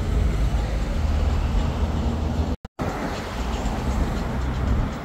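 City street traffic noise with a heavy low rumble. The sound cuts out completely for a moment about two and a half seconds in.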